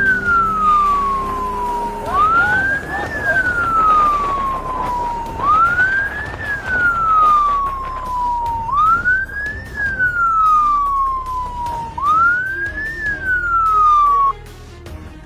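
Police siren wailing in a repeating cycle, each wail rising quickly and falling slowly, about every three seconds, over steady road noise. It cuts off abruptly near the end.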